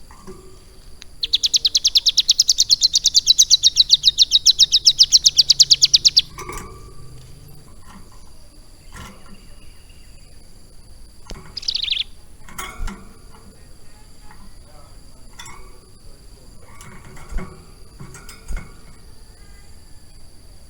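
Ciblek gunung, a prinia, singing: a loud, fast rattling trill of rapidly repeated high notes for about five seconds, then a quick falling whistle and scattered short chips.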